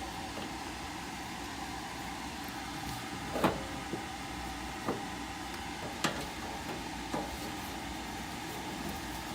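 About five short metallic clicks and clinks, the sharpest about three and a half seconds in, as screws are handled and driven by hand into a furnace cabinet, over a steady background hum.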